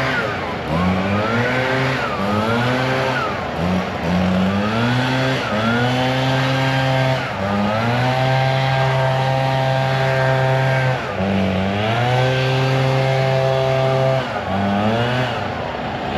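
A large engine revving up and dropping back repeatedly, its pitch climbing in steps, holding, then dipping several times.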